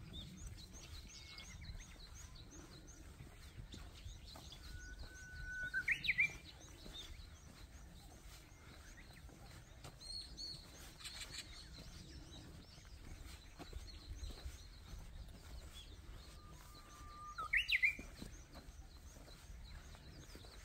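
Wild birds calling: one bird gives the same call twice, about twelve seconds apart, a short held note followed by a quick rising sweep, the loudest sounds here. Faint high chirping from other birds runs through the first half, over a low rumble.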